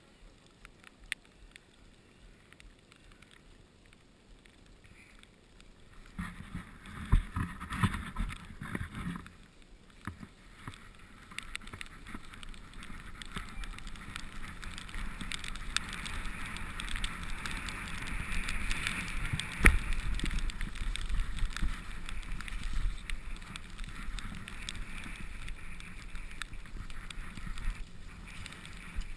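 Mountain bike riding down a wet, muddy trail: tyre noise with rattles, clicks and knocks from the bike, starting about six seconds in after a quiet stretch and growing louder, with a sharp knock about two-thirds of the way through.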